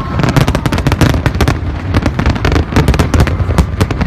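Aerial fireworks shells bursting in quick succession: a dense, rapid crackle of sharp reports over a steady low rumble.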